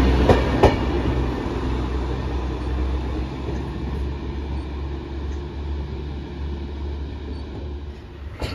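Passenger diesel multiple unit running past at close range and pulling away, its low engine drone and wheel rumble fading steadily as it goes. Two sharp wheel clacks over rail joints come within the first second.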